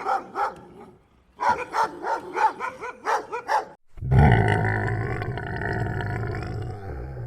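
A dog barking in a quick run of short barks, about three a second, pausing briefly once. About four seconds in, a single long, low, drawn-out animal call takes over, louder than the barks.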